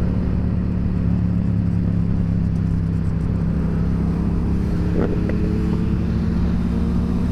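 Yamaha FZ-07's parallel-twin engine running at a steady cruising speed while being ridden, an even engine hum that holds its pitch.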